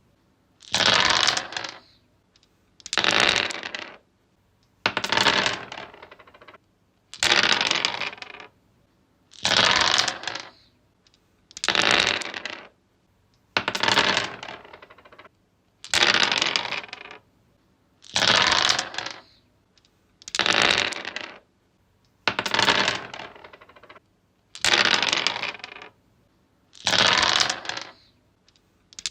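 Dice thrown and rolling across a wooden surface, clattering to a stop. The roll repeats about every two seconds, thirteen times, each lasting about a second and dying away.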